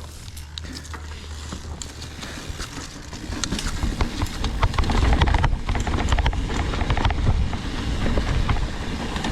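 Mountain bike riding down a rough, rocky trail: tyres rolling over rock and dirt with irregular knocks and clatter from the bike. A low rumble grows louder about three seconds in.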